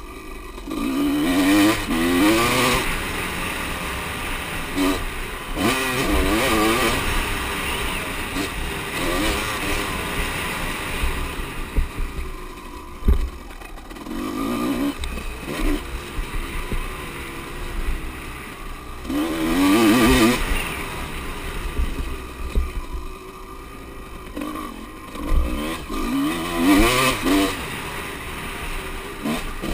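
Motocross bikes racing past, engines revving up and falling back between gear changes, with several louder swells as bikes come close and go by.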